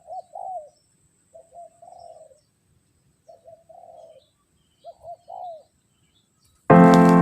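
A spotted dove cooing: four short phrases about every second and a half to two seconds. Loud piano music cuts in near the end.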